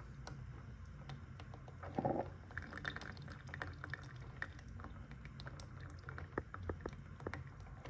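Café Valet single-serve coffee maker brewing: faint trickling and dripping of coffee into the cup over a low steady hum, with scattered small ticks and one short louder sound about two seconds in.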